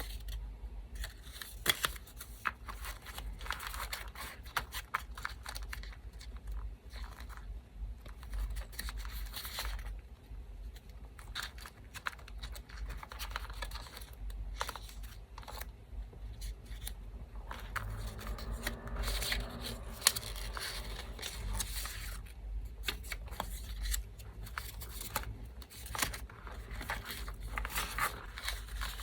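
Scissors snipping small pieces of paper, with paper rustling and tearing between the cuts, over the steady low hum of an electric fan.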